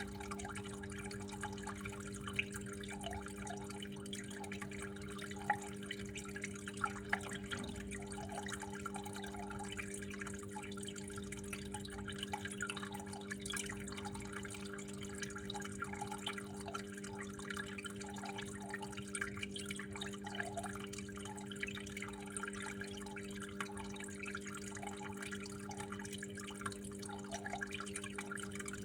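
Water flowing and dripping steadily in a small trickle, with a few louder drops here and there, over a constant low hum.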